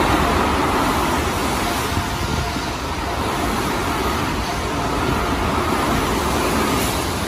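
Tokyo Metro Tozai Line electric commuter train passing through the station platform at speed without stopping: a loud, steady rush of wheel-on-rail and running noise.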